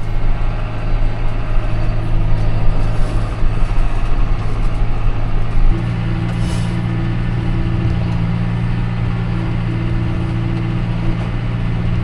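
A heavy vehicle's engine running steadily, its note stepping up slightly about six seconds in.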